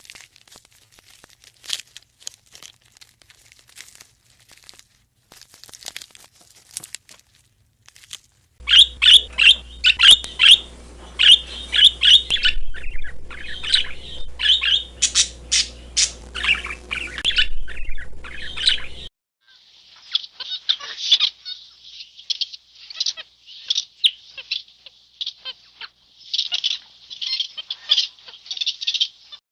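Birds calling: many short, high-pitched squawks and chirps in quick succession. Faint scattered chirps and clicks come first. About a third of the way in, a loud run starts over a low steady hum. After a brief break near two-thirds through, a second run of calls follows.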